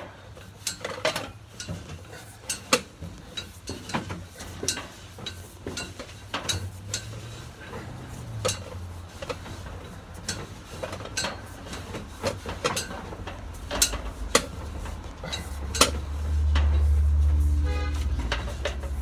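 Irregular clicks and knocks as a sewer inspection camera and its push rod are fed through cast iron drain pipe. A louder low rumble comes in for a few seconds near the end.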